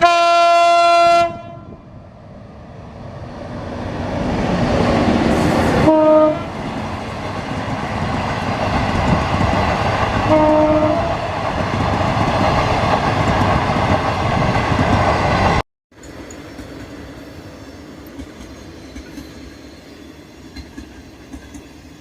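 Lao–China Railway passenger train sounding its horn for about a second, then rushing past at speed with a rising roar of rolling stock and clickety-clack, and two short tones about 6 and 10 seconds in. The sound cuts off abruptly after about 15 seconds, followed by a quieter steady rumble.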